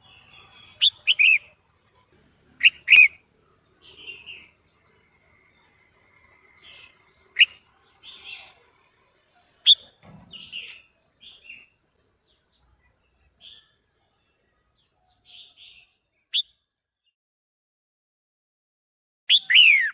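Female red-whiskered bulbul giving short, sharp chirping calls, singly and in quick pairs, a few seconds apart; the last one, near the end, slides down in pitch.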